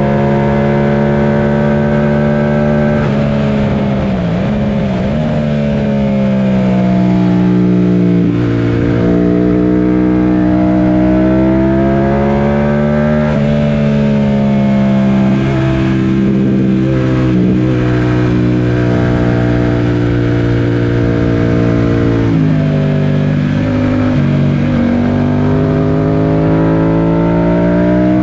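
Yamaha FZ-07's 689 cc parallel-twin engine under hard load on a race track. Its pitch climbs steadily as it pulls, then drops sharply several times, about a few seconds in, near halfway and again about three-quarters through, before climbing again near the end.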